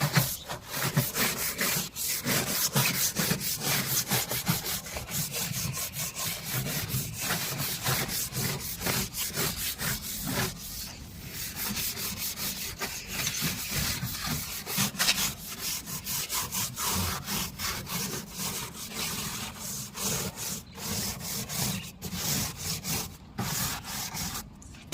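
Scrubbing the dirty casing of an air conditioner's outdoor unit after spraying it with cleaning solution, in quick back-and-forth rubbing strokes.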